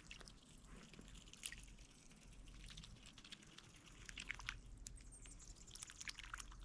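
Near silence with faint, scattered wet clicks and drips: geese and ducks dabbling and nibbling with their bills in shallow water.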